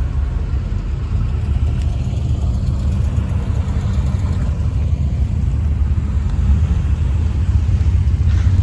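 Steady low rumble of a car running at low speed, engine and road noise with no distinct events, growing a little louder near the end.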